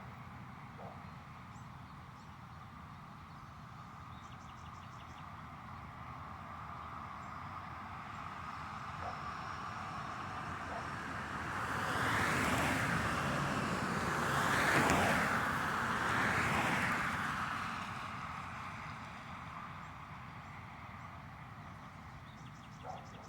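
Road traffic: a steady background rumble, with a few vehicles passing close by in the middle, the passes swelling and fading over about six seconds.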